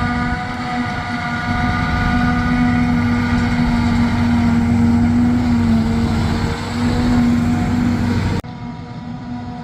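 Heavy farm machinery running steadily: a deep drone with a steady whine over it. About eight seconds in the sound drops abruptly to a quieter, duller version of the same machine noise.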